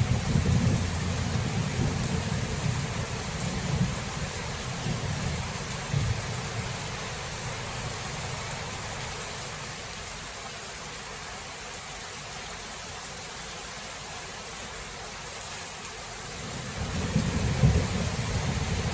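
Thunderstorm: steady rain hiss with low rolling thunder that dies away over the first several seconds and builds again near the end.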